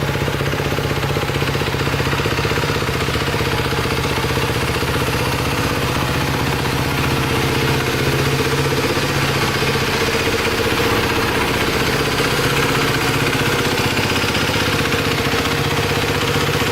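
CCM GP450 Adventure's single-cylinder engine idling steadily.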